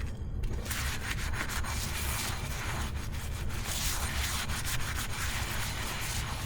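A dish being scrubbed by hand at the sink: quick, repeated back-and-forth rubbing strokes that start about half a second in, over a steady low hum.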